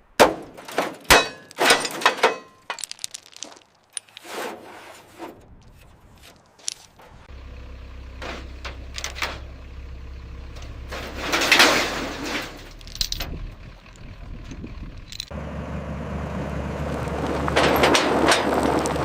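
Several sharp knocks and clatters, then a vehicle engine running steadily, with a sudden step up in loudness later on that keeps building.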